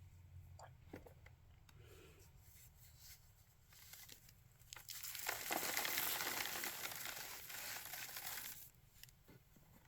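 Packed cornstarch being crushed: a few faint crackles, then about five seconds in a dense, gritty crunching that lasts about three seconds before dropping back to scattered crackles.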